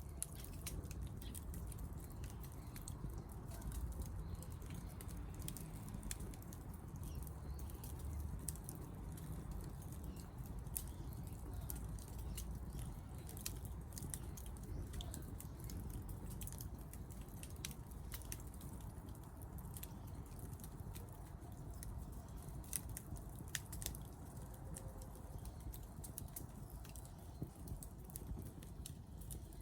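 Wood campfire crackling, with many irregular sharp pops over a steady low rumble.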